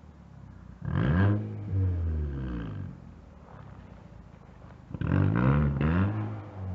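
Kia Rio engine revved through a split dual-outlet tuned exhaust. A sharp blip about a second in falls back to idle, and near the end comes a second burst with two quick blips before it settles again.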